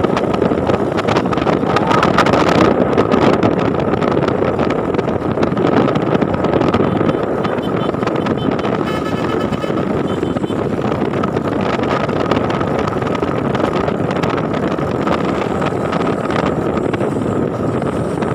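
A road vehicle travelling at speed: steady engine and road noise with wind buffeting the microphone and a faint steady whine on top.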